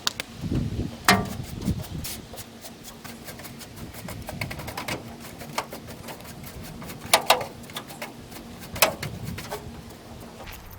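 A few scattered sharp knocks and clicks, the loudest about a second in and twice near seven seconds, over a faint steady low hum; no grinder is running.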